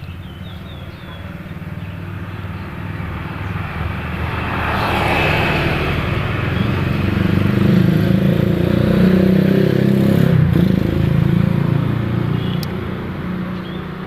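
A motor vehicle passing on the road: its engine grows louder, peaks past the middle, then fades away.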